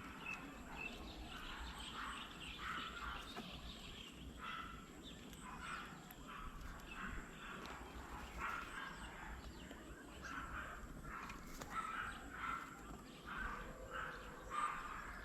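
Several birds calling and chattering at once, a dense run of short, overlapping calls.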